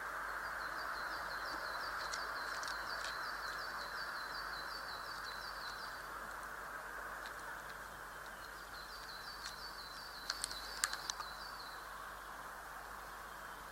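A small songbird singing two songs, each a quick run of repeated high notes lasting several seconds, over a steady rushing background noise. A few sharp taps come during the second song.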